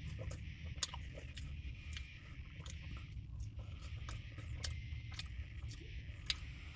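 Faint, soft chewing with scattered small mouth clicks as a soggy, non-crispy apple turnover is eaten, over a steady low hum.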